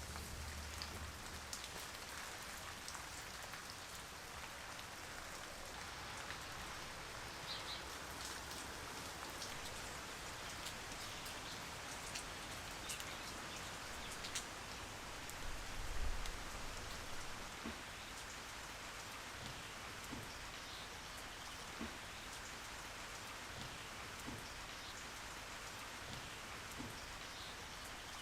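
Steady rain falling, with scattered individual drops ticking. A soft low thump about sixteen seconds in.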